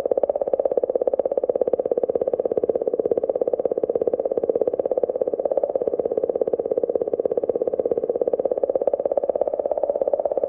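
Space signal data converted into audio: a steady, buzzy train of rapid pulses, many a second, sitting in a low-to-middle register and unchanging throughout.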